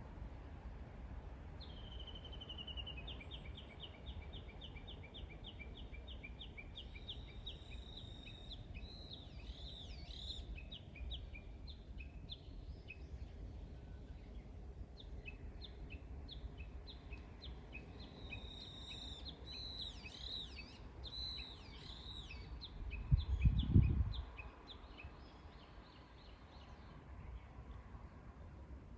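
A songbird singing long runs of quick repeated high notes, about four a second, in two bouts with a pause in between, over a steady low background rush. A brief low rumble breaks in near the end of the second bout.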